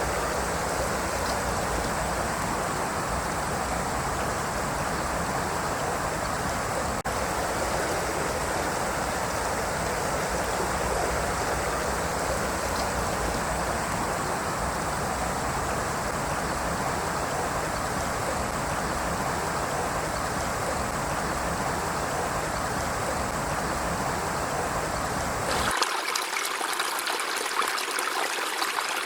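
River water flowing steadily with a full, deep rush. Near the end it cuts abruptly to a lighter, splashier stream sound without the low rumble.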